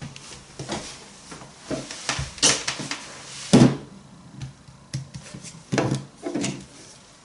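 Irregular knocks, clicks and rustles of objects being handled at close range, with the loudest knock about three and a half seconds in.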